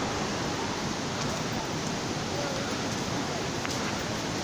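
Steady rush of falling water from the Tolantongo cascades, an even roar that holds at one level, with faint voices in the background.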